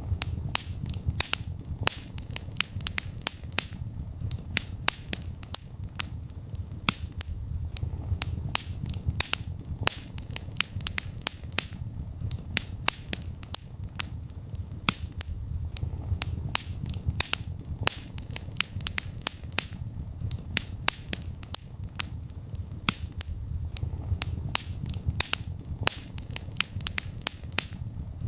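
Wood fire crackling in a fireplace: frequent sharp pops and snaps, several a second, over a low steady rumble of the burning fire.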